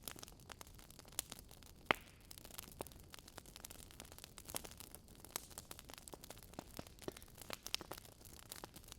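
Wood fire burning, with irregular sharp crackles and pops from the burning logs over a faint hiss; one louder pop about two seconds in.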